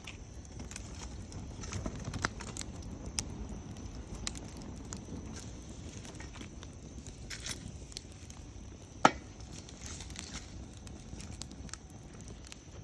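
Wood campfire crackling, with scattered small pops and one sharp, loud pop about nine seconds in.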